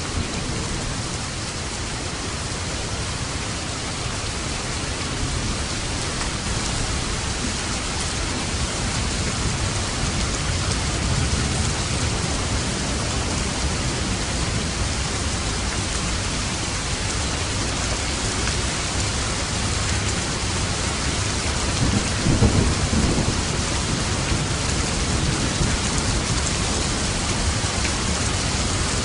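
Steady heavy rain hiss with light thunder rumbling low underneath. A louder roll of thunder swells and fades about three-quarters of the way through.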